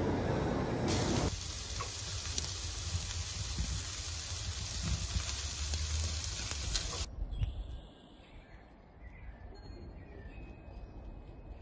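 A second of loud low rumbling noise, then food sizzling in a hot pan: a steady hiss with scattered crackles that cuts off suddenly about seven seconds in, leaving a quieter background with faint chirps.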